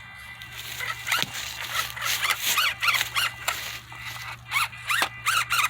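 A small RC crawler's electric motor and gearbox whine in short throttle bursts. Each burst rises and falls in pitch, repeating every half second or so, as the little truck tries to climb a rock.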